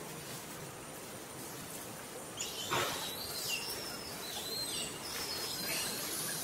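Birds calling in the surrounding trees: a run of short, high whistled notes that swoop downward, beginning about two and a half seconds in, over a steady outdoor background hiss.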